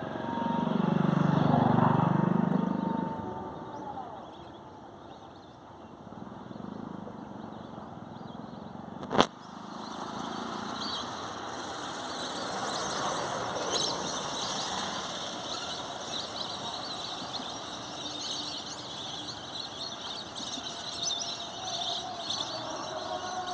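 A motor vehicle passes close by for the first few seconds, its engine note bending in pitch as it goes. About nine seconds in there is a single sharp bang. Then many short, high bird chirps carry on over a steady background of traffic.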